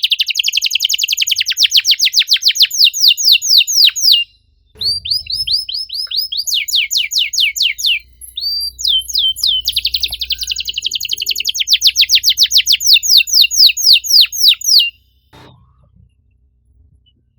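Domestic canary singing fast, tightly packed trills: rapid repeated high sweeping notes, several a second, in long phrases with brief pauses about four and eight seconds in. The song stops about fifteen seconds in, leaving only a few faint ticks.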